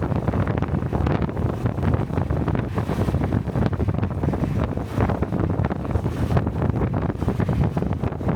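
Steady wind rushing over a helmet-mounted microphone while riding, with the engine of a Honda Cub-series 125 cc motorcycle running underneath.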